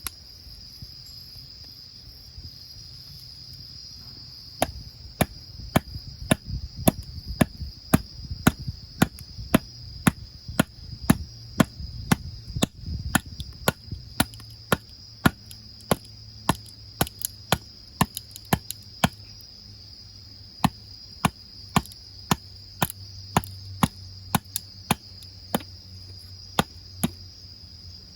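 Repeated sharp chopping strikes, about two a second, starting a few seconds in and keeping an even rhythm, over the steady high chirring of crickets.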